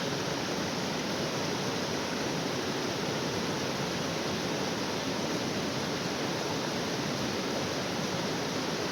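Steady rush of a waterfall, an even wash of falling water that holds unchanged throughout.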